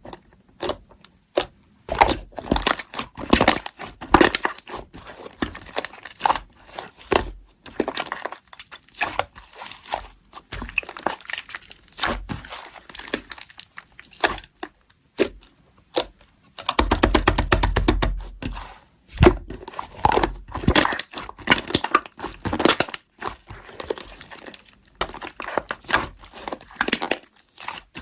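Slime being squeezed and pulled by hand, making irregular crackling and popping clicks that grow denser and fuller about two-thirds of the way in.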